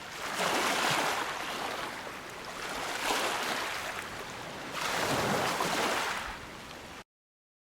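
Waves washing in three slow swells about two and a half seconds apart. The sound cuts off suddenly near the end.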